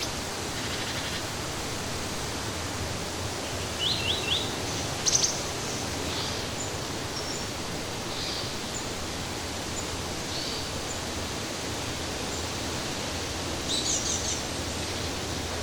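Steady rushing of flowing water, with small birds chirping over it. Three quick notes come about four seconds in, then scattered chirps, and a short rapid trill near the end.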